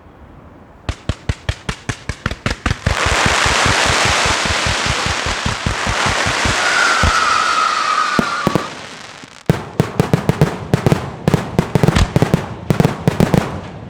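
Pirotecnica Pellicani fireworks display: a rapid string of bangs, about five a second, then several seconds of dense continuous crackling with a short whistle in the middle. About nine seconds in, another fast, irregular run of bangs follows.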